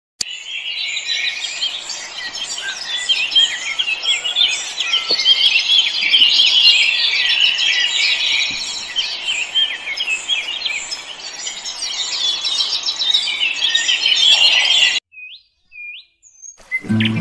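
Dense chorus of many small birds chirping and twittering together, cutting off suddenly about fifteen seconds in, followed by two short separate chirps.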